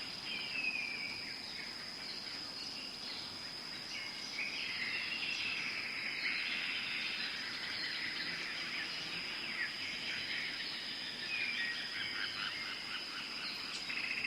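Tropical forest ambience: a steady high-pitched insect drone, with birds calling over it in repeated falling whistles and short trills.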